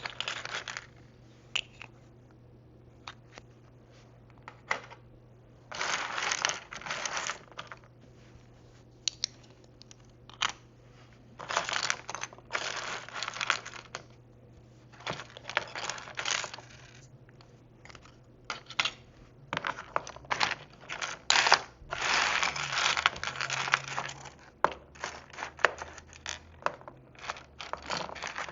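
Small plastic miniature food pieces and tiny dishes being handled: many sharp light clicks as they are picked up and set down, with several crinkling rustles of a second or two each.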